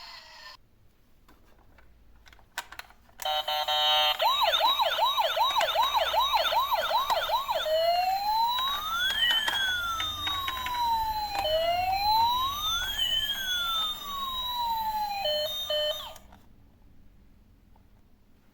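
A toy vehicle's electronic siren sound effect, set off with a click about three seconds in. It plays a fast warbling yelp of about three cycles a second, then switches to a slow wail rising and falling twice, and cuts off suddenly about sixteen seconds in.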